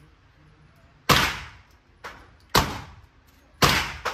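Gunshots at a shooting range: three loud shots about a second and a half apart, with two fainter shots between them. Each shot is sharp, with a short echoing tail.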